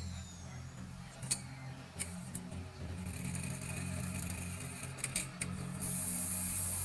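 JACK 3020F1 laser-cutting pattern sewing machine at work on welt pockets: a steady low hum with a few sharp clicks, and a high hiss that comes in about three seconds in and grows louder near the end.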